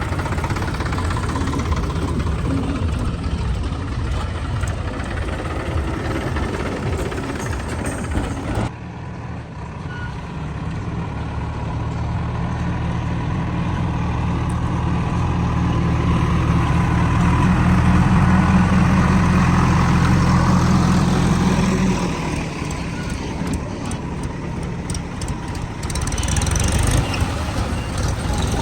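Heavy diesel engine running steadily at low revs. About a third of the way in the sound changes abruptly, then the engine note builds and grows louder before dropping back suddenly about three-quarters of the way through.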